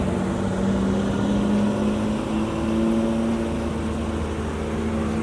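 A car engine running at a steady speed, its pitch rising slightly about two seconds in and then holding.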